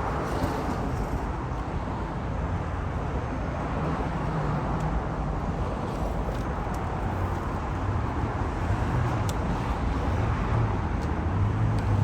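Cammed 2008 Chevrolet Impala SS's 5.3-litre LS4 V8 running through a full 3-inch straight-pipe exhaust: a steady low rumble that grows a little stronger in the second half.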